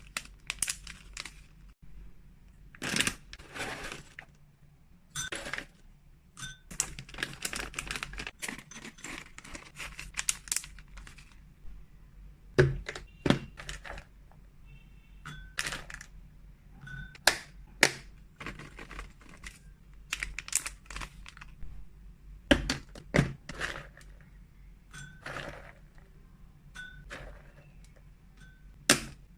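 Freeze-dried cat treats and their plastic packaging being handled and portioned out by hand: irregular clicks, knocks and crinkling, with a few louder sharp knocks scattered through.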